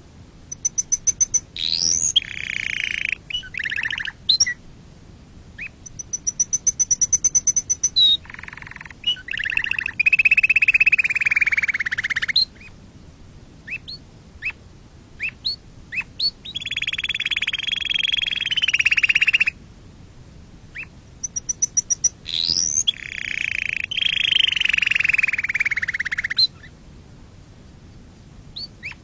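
Domestic canary singing: phrases of fast, high trills alternating with long, buzzing rolls lasting a few seconds each, broken by short pauses.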